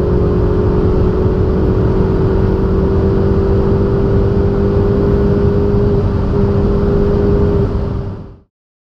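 A performance car's engine running at a nearly steady pitch under loud road and wind noise, fading out about eight seconds in.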